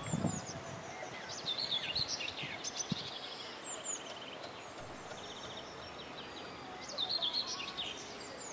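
Songbirds singing outdoors: repeated chirping phrases and a fast trill, with two faint knocks about two and three seconds in.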